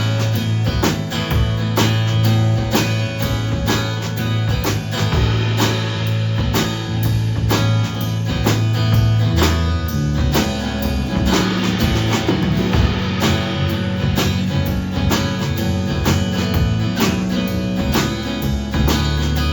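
Live band playing a song: a drum kit keeps a steady beat under strummed guitar and a sustained bass line, with the bass shifting to a new note about halfway through.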